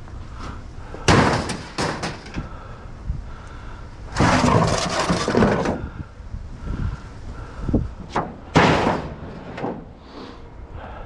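Scrap metal being handled: several loud bangs and clanks, with a scraping drag of about a second and a half near the middle.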